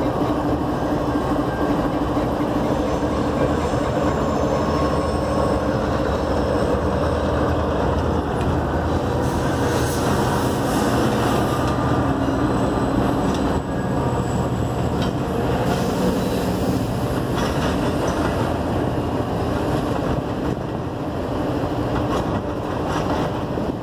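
A diesel-hauled passenger train pulling slowly past: a steady locomotive engine drone, then passenger cars rolling by with continuous rumbling wheel and rail noise and some higher-pitched wheel noise partway through.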